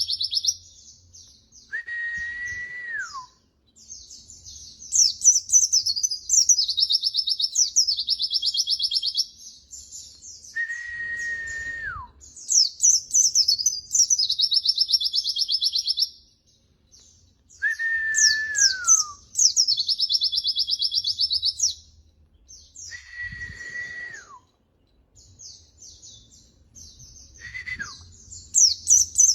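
White-eye (pleci) song: rapid high trills and chattering phrases in bouts of a few seconds. Five times, a separate lower drawn-out whistle sounds and drops in pitch at its end; the last one is short and comes near the end.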